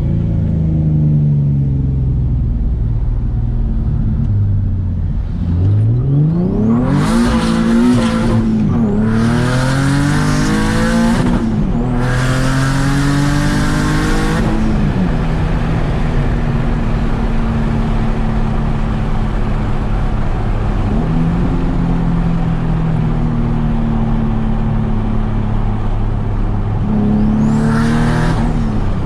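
Turbocharged Nissan 370Z's V6 accelerating hard about six seconds in. Its pitch climbs and drops back at each gear change under a loud rushing hiss, for three pulls in a row. It then settles to a steady cruising note, with another short burst of throttle near the end.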